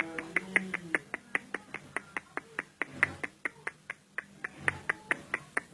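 Sharp clicks in a rapid, even series, about five a second, going on without a break.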